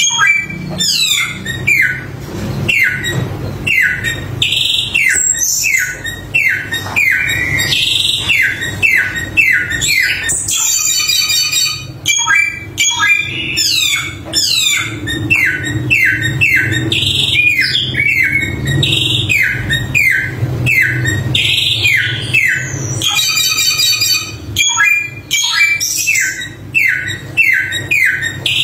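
Samyong songbird singing a fast, varied song of short falling whistled notes, broken twice by bursts of harsh, high chattering, over a steady low hum.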